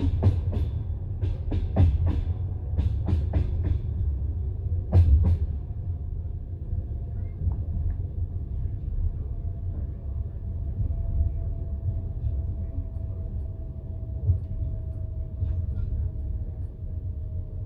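Passenger train carriage running on the rails, heard from inside: a steady low rumble with a quick run of wheel clacks over rail joints in the first five seconds or so. After that the rolling is smoother, with a faint steady whine.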